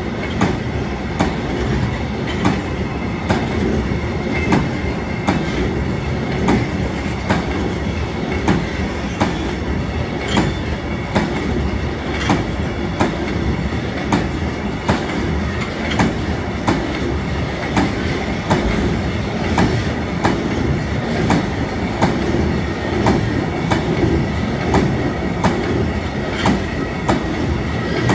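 Freight train of car-transporter flat wagons loaded with vans rolling past, its wheels clicking over the rail joints in a steady rhythm, often in pairs, over a continuous rumble. A faint steady high whine runs under it.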